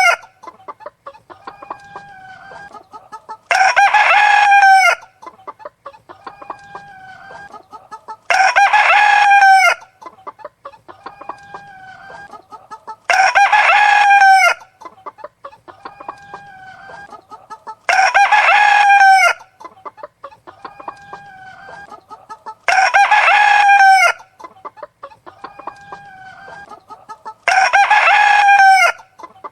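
A rooster crowing six times at even intervals of about five seconds, each crow about a second and a half long and ending on a falling note, with the same pattern each time. Between the crows, softer short clucking calls from chickens.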